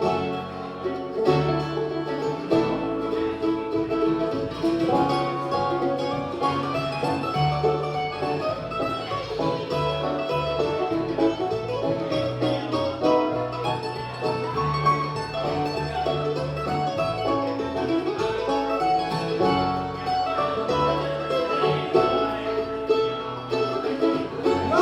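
Bluegrass band playing an instrumental break: banjo and guitar over a bass line.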